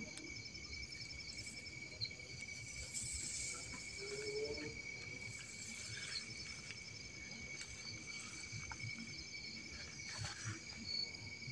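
Insects chirping steadily: a continuous high trill with a faster, evenly pulsed chirp above it, over faint outdoor background noise.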